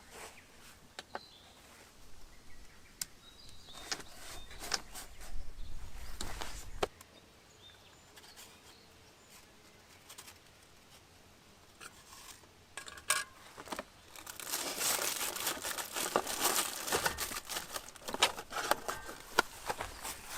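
Something crinkly being handled: scattered clicks and knocks, then dense crinkling and rustling from about two-thirds of the way in.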